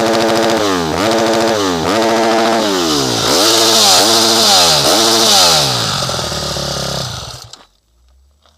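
KTM 250 SX-F motocross bike's single-cylinder four-stroke engine revving hard about six times in quick succession, its pitch climbing and dropping with each blip. The engine fades out near the end.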